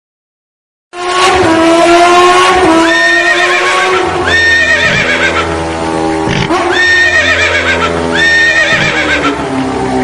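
A loud, horse-like whinnying sound starts about a second in after silence. It comes in repeated waves of falling and rising pitch.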